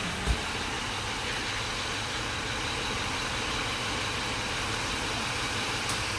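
Honda Odyssey 3.5-litre V6 idling steadily, an engine with a confirmed blown head gasket, with a single sharp knock shortly after the start.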